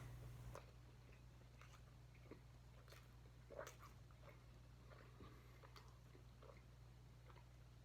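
Faint chewing and mouth noises from someone eating a chicken McGriddle: scattered soft smacks and clicks over a low steady hum.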